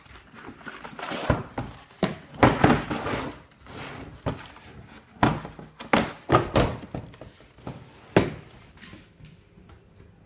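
Handling noise: a series of irregular knocks and clicks with short rustles, as of an object being picked up, turned over and set down, fading off near the end.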